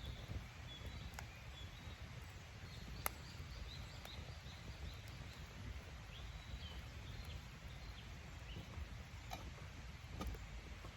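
Campfire crackling, with a few sharp pops of burning wood over a low outdoor rumble; small birds chirp faintly in short high notes.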